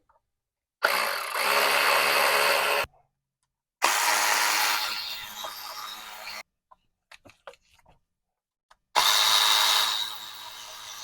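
Cordless power driver spinning out bolts in three runs of about two seconds each, with short pauses between them.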